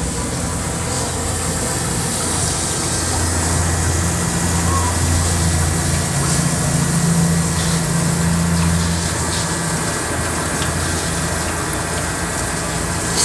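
Commercial dishwasher running an automatic wash cycle: a steady pump-motor hum under water rushing and spraying inside the machine.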